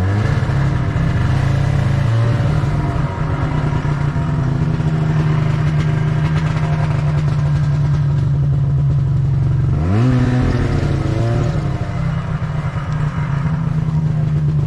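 Snowmobile engine running under throttle. Its revs climb quickly at the start and again about ten seconds in, then hold steady.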